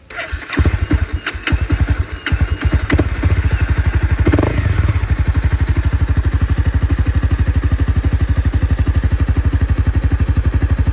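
A Honda CBR300R's single-cylinder engine breathing through a Yoshimura R77 stainless slip-on exhaust with its baffle in: it is started, catches about half a second in, and settles into a steady, loud idle of even exhaust pulses.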